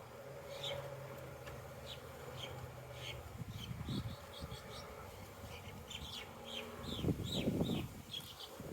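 Honey bees buzzing in flight around the hive entrance on orientation flights, a steady hum. A small bird chirps repeatedly in the background, and a brief low rustling noise comes about seven seconds in.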